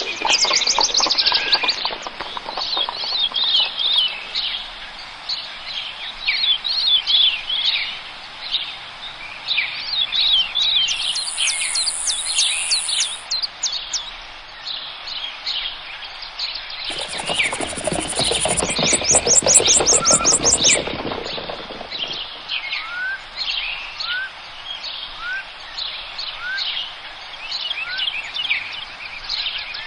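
Several forest birds singing and chirping together, overlapping calls and trills throughout. A louder, lower bout of rapid calls comes about two-thirds of the way in, followed by a few short rising whistles.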